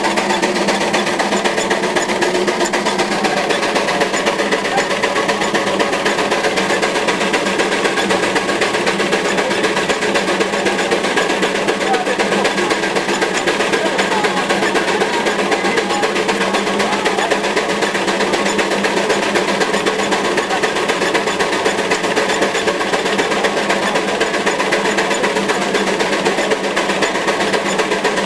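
Veneer lathe running steadily: a dense, even mechanical clatter with a steady hum underneath.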